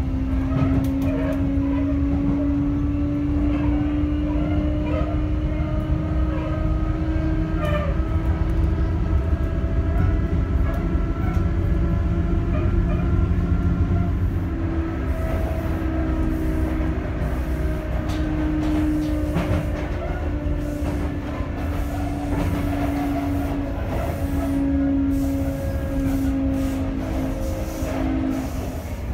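Interior running sound of a Sotetsu 8000 series electric train at speed: rumble of wheels on rail with a steady whine from its right-angle cardan drive gearing, and fainter higher tones above it.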